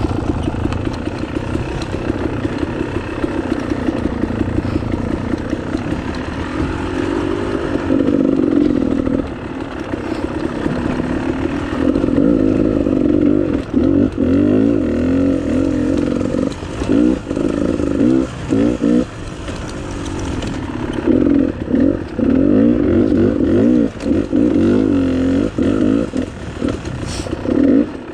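Dirt bike engine revving up and down as it is ridden, with the throttle snapped shut and reopened many times from about twelve seconds in.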